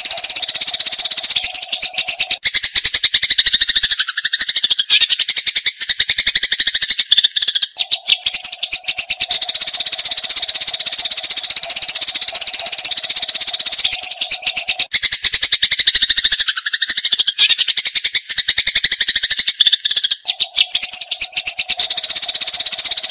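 Eurasian tree sparrows giving a fast, unbroken fighting chatter of sharp chirps, the long rapid-fire 'nembak panjang' call used as masteran for songbirds. A steady low tone runs underneath and breaks off twice.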